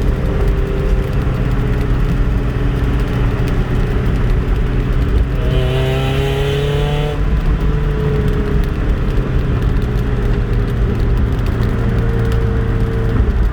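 Mazda Miata 1.8-litre four-cylinder running through an aftermarket header, Borla dual exhaust and MagnaFlow resonator, heard from inside the car with the windows open while driving. The note is fairly quiet on deceleration, then rises briefly in pitch about five seconds in and drops back about two seconds later.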